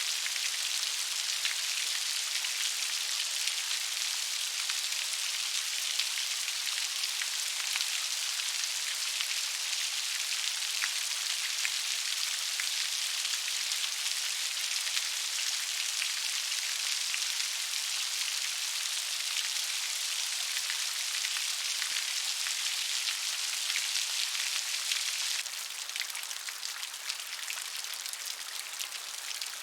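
Gentle rain: a steady hiss of falling rain with a dense patter of small drops. About 25 seconds in it changes abruptly to a slightly quieter, duller rain.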